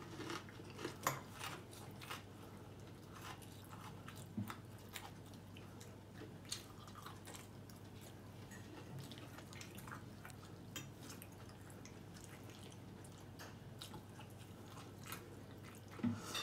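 A person chewing food, with scattered light clicks of a fork against a plate over a low steady room hum.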